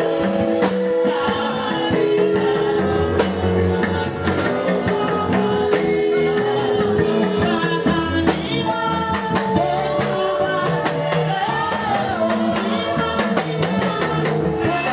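Worship music from a band with drum kit and guitar, held chord notes and singing over a steady beat.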